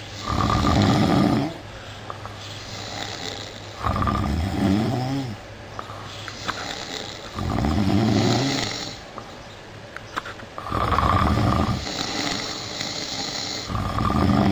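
A sleeping person snoring loudly and rhythmically: five rough snores, about one every three and a half seconds, each with a softer hissing breath between.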